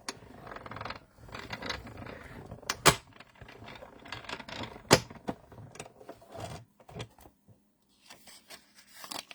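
Die-cutting machine in use: the cutting plates with a circle die rubbing and clicking as they are worked through it, with two sharp clacks about three and five seconds in. It goes quieter for the last couple of seconds.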